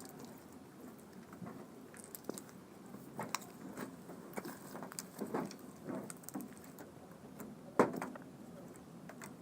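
Clear slime with sequins mixed in being squished and worked by hand, giving small irregular sticky pops and clicks, with one sharper pop near the end.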